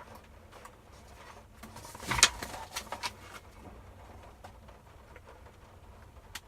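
Paper pages of a race program being handled and turned: soft rustles and taps, with a louder crackle of paper about two seconds in and a few smaller ones just after.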